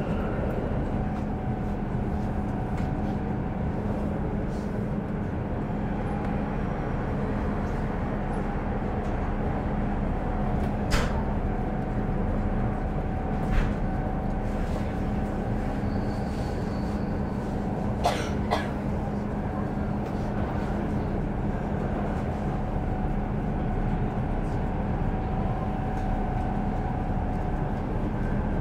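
Steady running noise of an X10 electric multiple unit train under way, with a constant low hum. A few short clicks or knocks come about 11, 13 and 18 seconds in.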